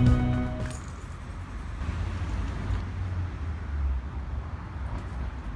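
Background music ends within the first second, then a low, steady outdoor rumble with no clear source.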